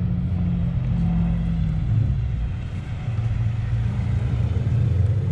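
Four-cylinder engine of an Acura Integra running low and steady as the car rolls slowly up at walking pace. The rumble eases briefly about halfway through, then picks up again.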